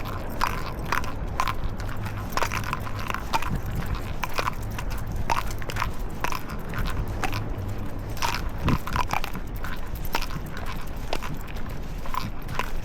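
Walking sounds: an irregular run of sharp clicks and taps, two or three a second, over a low steady hum.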